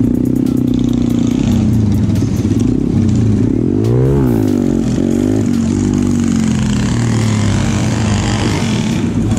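Small motorcycle engines running on the move, a steady engine hum with the pitch of one engine rising and falling once about four seconds in.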